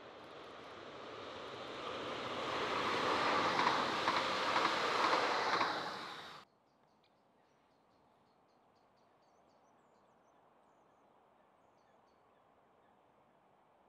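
Regiolis TER multiple unit passing close by: the rush of wheels and air builds to a loud peak, then cuts off abruptly about six seconds in. Faint outdoor background with a few small high chirps follows.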